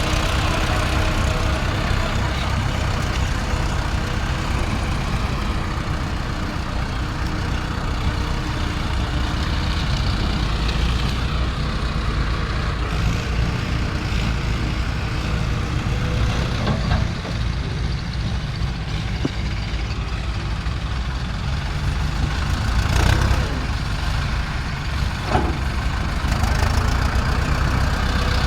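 Heavy diesel engines of an excavator and tractors running steadily, with a few brief knocks near the end.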